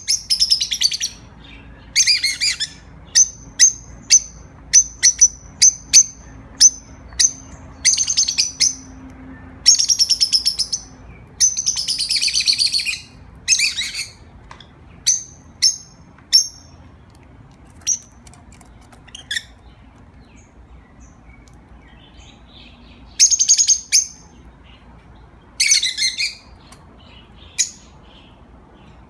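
Pet parrots calling: a run of short, sharp high chirps mixed with a few longer, harsh screeches through the first half, then scattered calls with a loud pair of screeches again near the end.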